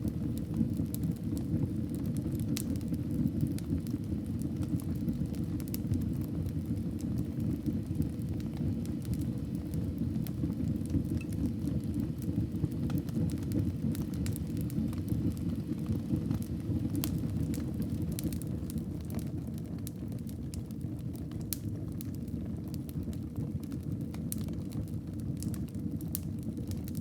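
Wood fire burning in a fireplace: a steady low rumble with scattered sharp crackles and pops of the burning wood, coming more often in the second half.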